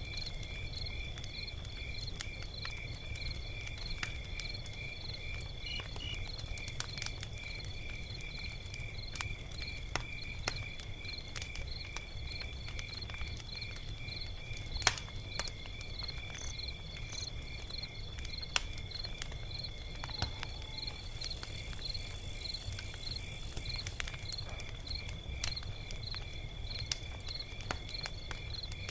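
Log fire crackling: scattered sharp pops over a low steady rumble, with one louder pop about halfway through. Crickets chirp in a steady, regular rhythm throughout.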